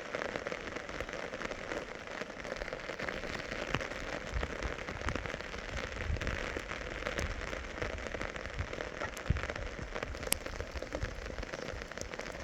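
Rain falling steadily on surfaces, with frequent sharp ticks of individual drops and one louder tick about ten seconds in.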